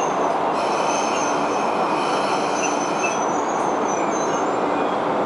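Steady rumble of an approaching train on the rails, with thin high whining tones from wheels on track from about half a second in until about three seconds in.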